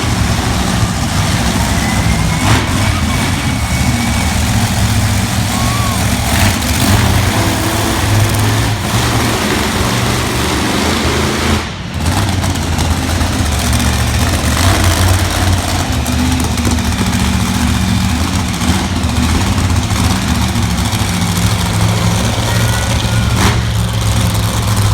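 Monster truck engines running loudly, a steady low-pitched drone, with a brief drop about halfway through.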